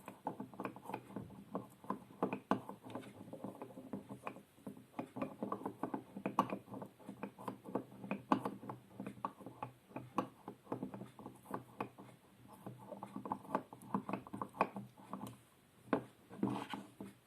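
Close-miked ASMR trigger sounds: rapid, irregular clicking and tapping of handled objects, several clicks a second.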